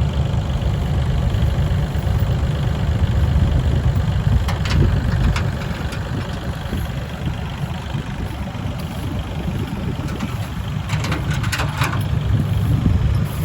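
Heavy dump truck's diesel engine running steadily with a deep, low rumble. A few short clicks or knocks come about five seconds in and again near the end.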